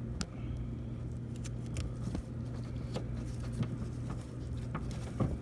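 A steady low hum with scattered small clicks and knocks from hands working electrical wiring under a refrigerated case.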